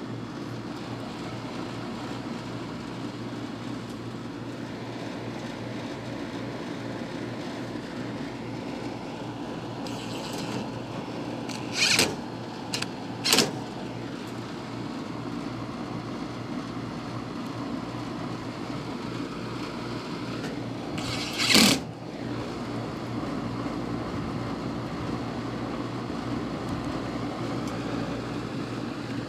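Home air-conditioner outdoor unit running with a steady hum, its compressor now starting properly on a new starting capacitor. Three short, sharp noises cut in: one about twelve seconds in, another a second later, and a slightly longer one about twenty-one seconds in.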